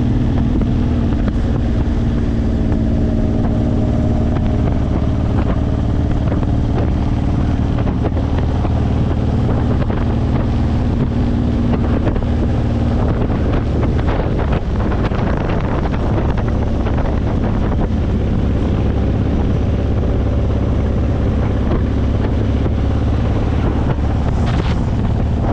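Honda VTX1800's 1800 cc V-twin engine with Vance & Hines pipes running steadily under way, with wind noise on the microphone that grows stronger near the end.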